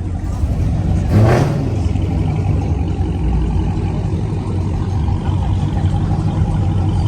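Car engine running with a steady low rumble, with a brief louder burst about a second in.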